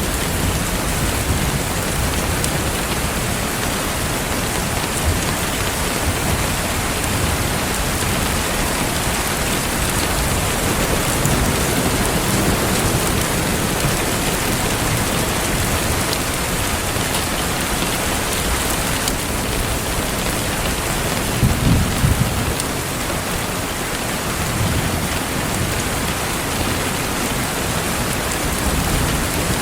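Steady rain falling, a continuous even hiss, mixed with the faint crackle of a fireplace. A brief low rumble comes about two-thirds of the way in.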